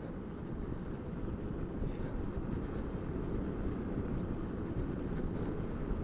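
Wind rush and tyre road noise of a motorcycle coasting downhill with its engine switched off, growing slightly louder as it picks up speed.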